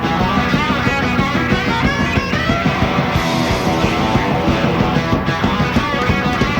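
Live rock band playing a fast rock and roll instrumental passage: electric guitars over bass and drums with a steady driving beat and no vocals.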